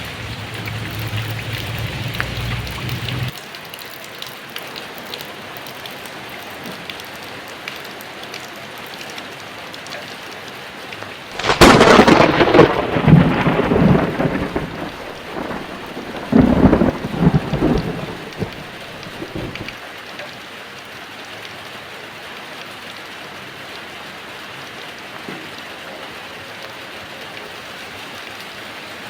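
Steady heavy rain with a loud thunderclap about a third of the way in, followed by rolling rumbles of thunder that die away after several seconds.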